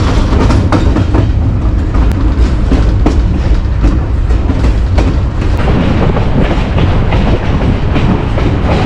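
Passenger train car running along the track: a loud, steady rumble with the wheels clicking and clacking over the rails.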